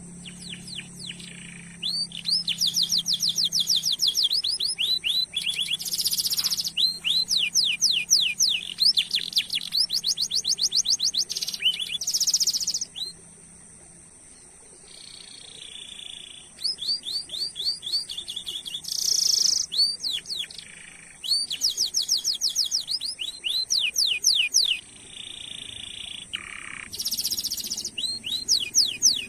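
Domestic canary singing in long bursts of fast trills: rapid runs of repeated rising chirps and rolling phrases, broken by a short pause about halfway through. A steady thin high whine runs underneath.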